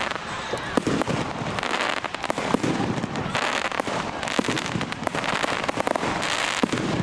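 Fireworks display: a rapid, irregular string of aerial shell bursts and sharp bangs, several a second, with patches of crackling hiss between them.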